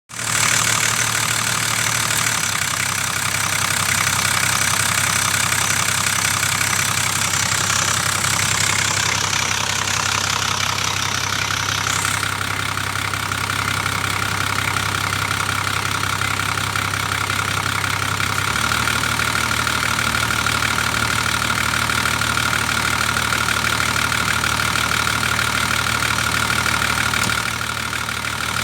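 Toyota Land Cruiser 4.2-litre inline-six diesel engine idling steadily, its idle speed shifting slightly a couple of times.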